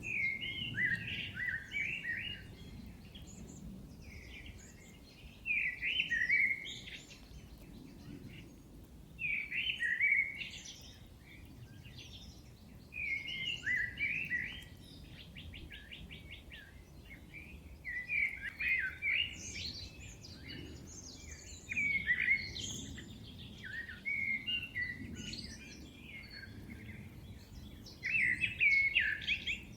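Thrush song: short, varied phrases repeated every three to four seconds with pauses between. Another bird gives a brief rapid trill near the middle, over a low steady outdoor rumble.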